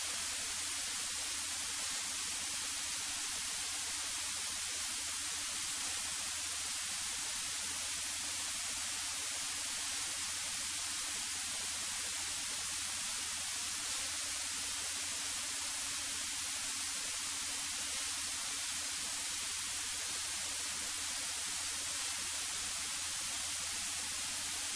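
Steady static hiss of the cockpit audio feed, unchanging, with a faint low hum beneath.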